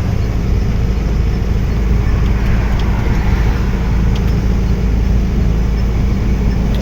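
A truck driving at speed: a steady low engine drone with road and tyre noise.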